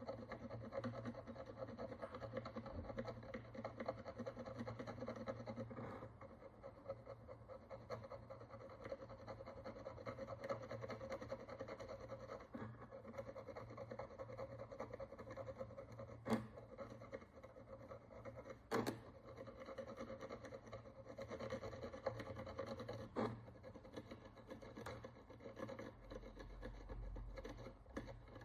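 Faint, continuous fine scraping and rubbing as a hand tool works the crust of dirt and oxidation off an ancient Roman bronze coin, with three sharp clicks partway through.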